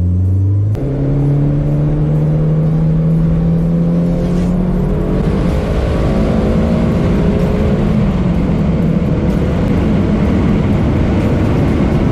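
Turbocharged Honda B20B four-cylinder engine pulling hard under acceleration, heard from inside the Civic's cabin: the engine note steps up about a second in and climbs steadily for several seconds, then a loud rushing noise builds over it.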